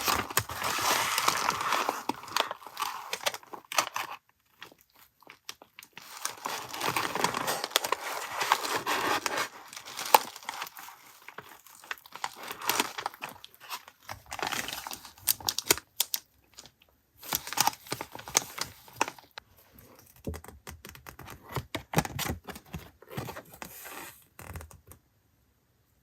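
Packaging being torn open and crinkled by hand, in irregular bursts of rustling with light taps and clicks between.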